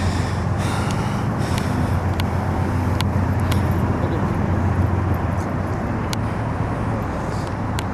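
Steady low rumble of a train running, with a few sharp clicks scattered through it.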